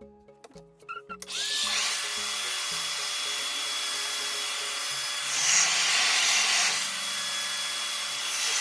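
Revair reverse-air hair dryer switched on about a second in: its motor whines up in pitch, then runs as a loud, steady rush of suction air, swelling louder for a second or so near the middle and again near the end.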